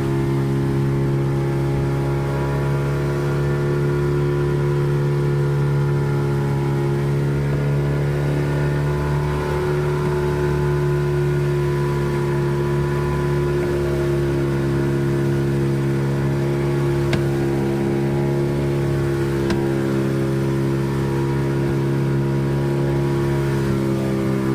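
Boat engine running at a steady speed, a constant even drone that holds the same pitch throughout, as the boat trolls.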